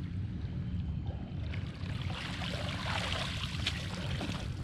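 Creek water splashing and trickling as a dead wild turkey is sloshed and rinsed in the current to wash off mud, busiest in the middle.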